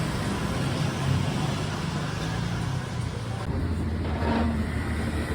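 Motor vehicle running: a steady low engine hum with road noise, changing about three and a half seconds in.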